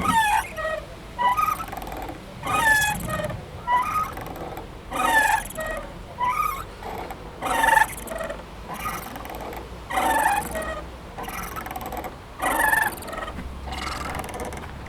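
Playground swing squeaking as it swings back and forth, a creak with a gliding pitch at each end of the swing, about once every second and a quarter in a steady rhythm.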